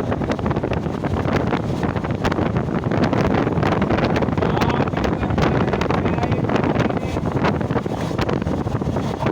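Moving train's steady rushing and rumbling, with wind buffeting the microphone and many quick clicks and rattles throughout.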